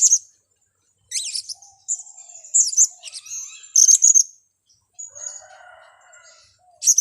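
Blue-crowned hanging parrots (serindit) chirping: shrill, high-pitched calls in quick bursts, after a short silence at the start.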